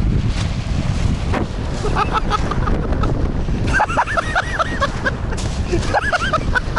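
Wind buffeting the microphone: a steady loud rumble. Several runs of short, arching high chirps come through it about two, four and six seconds in.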